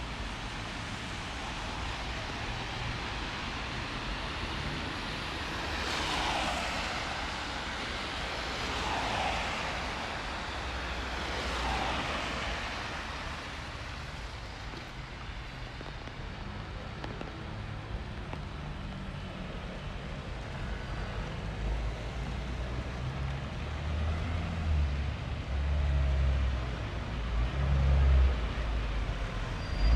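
Street traffic: three vehicles pass one after another with a rise and fall of tyre noise, then a heavy engine rumble builds and grows louder near the end.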